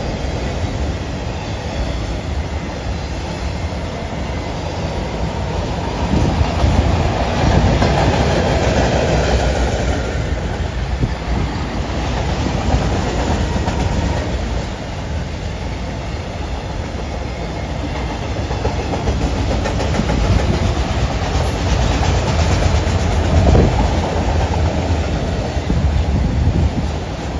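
Freight train of multilevel autorack cars rolling past, steel wheels rumbling and clacking over the rail joints in a steady stream. It swells louder twice, about a quarter of the way in and again near the end.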